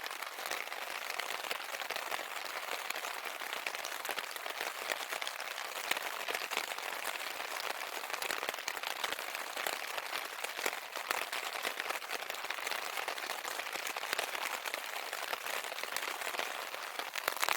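Steady rain pattering on a camp tarp overhead: a dense, even spatter of fine drops with no let-up.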